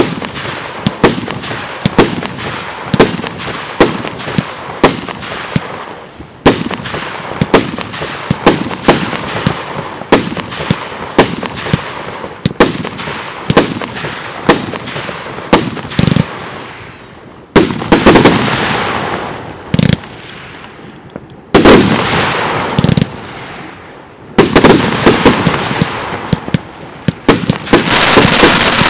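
Consumer firework cakes firing aerial shots in quick succession, about two sharp bangs a second, each trailed by crackle. In the second half, longer stretches of dense crackling with heavier bangs take over.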